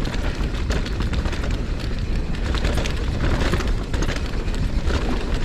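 Mountain bike ridden fast down a rocky singletrack: a steady rumble of tyres and wind on the microphone, with constant small rattles and clicks from the bike over the rough ground.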